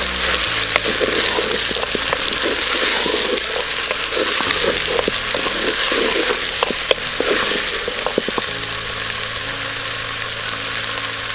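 Diced mixed vegetables sizzling as they fry in a clay pot, stirred and scraped against the pot with a wooden spatula; the scraping thins out near the end while the sizzle goes on.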